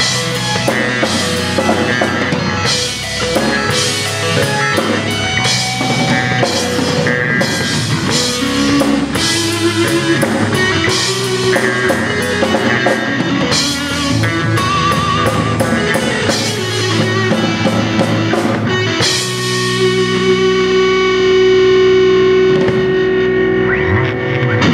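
Live rock band with electric guitar and drum kit playing an instrumental passage. About 19 seconds in, the drums drop out and the band holds one long sustained chord that stops just before the end, closing the song.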